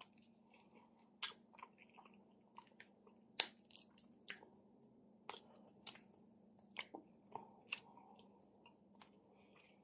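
Faint, close-miked chewing of smoked chicken: scattered wet mouth clicks and smacks, a dozen or so, the sharpest about three and a half seconds in.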